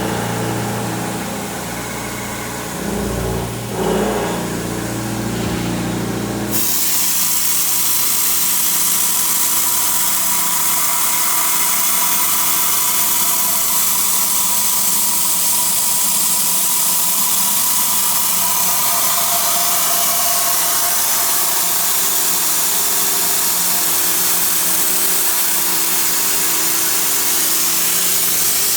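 CNC mill-turn machine at work on a shaft: a low, steady machine hum for the first six seconds or so, then an abrupt change to a loud, steady hiss with a faint steady whine underneath.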